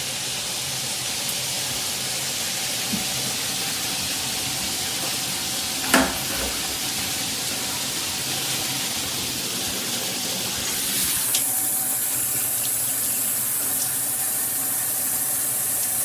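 Water spraying steadily from a Jcrob rain shower head and handheld wand combo, with a single sharp knock about six seconds in. The spray turns hissier about eleven seconds in.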